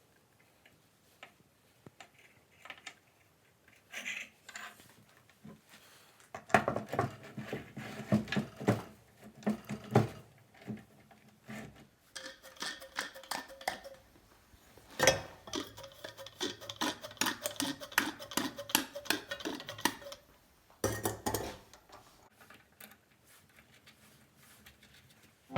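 Metal parts of a restored bench vise clicking and clinking as they are handled, in quick runs of sharp clicks with some ringing. There is a harder knock about 15 s in.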